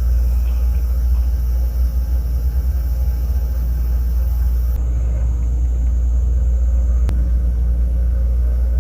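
A steady low mechanical hum and rumble, with a single sharp click about seven seconds in.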